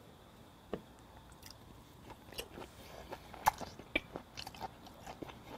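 Close-up chewing of raw flounder sashimi: irregular wet mouth clicks that come more often from about two seconds in.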